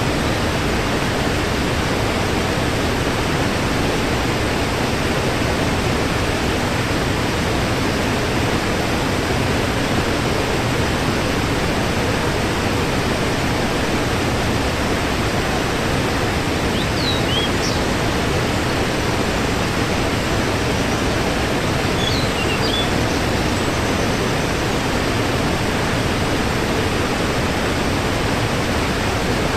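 Waterfall: a steady rush of falling water. A few faint high chirps come through a little past halfway and again a few seconds later.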